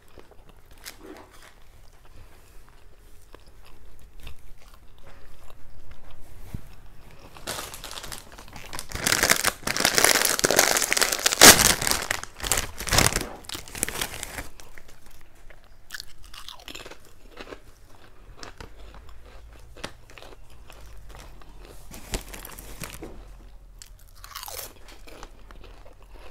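Close-up eating sounds picked up by a clip-on microphone: a person chewing and crunching food, with a loud, dense stretch of crunching and crackling from about 8 to 14 seconds in.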